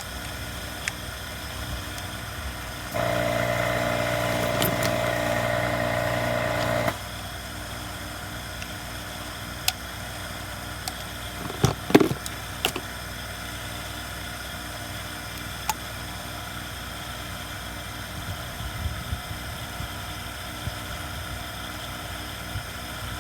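A steady mechanical hum of some machine. A louder motor hum switches on about three seconds in and cuts off about four seconds later. A few sharp clicks and knocks come later on.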